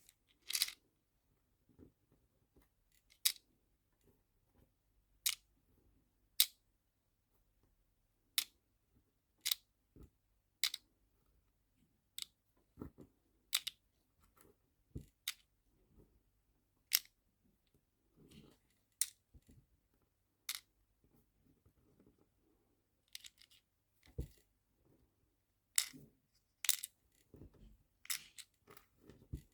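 Small sharp clicks and taps, most about a second apart and irregular, from nail-art charms and small plastic storage containers being handled and set down.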